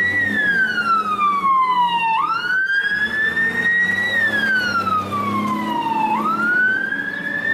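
Fire truck siren wailing, its pitch sliding slowly down and then back up about every four seconds.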